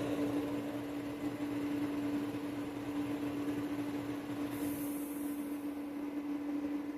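Steady machine hum at one pitch, with a short high hiss lasting about a second, beginning about four and a half seconds in.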